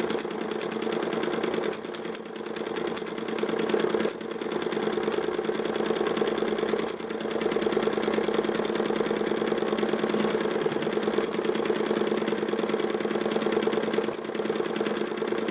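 Ernst Plank Cosmo toy vertical steam engine running steadily at speed under steam, with a fast, even mechanical beat. It dips briefly about four seconds in and again about seven seconds in.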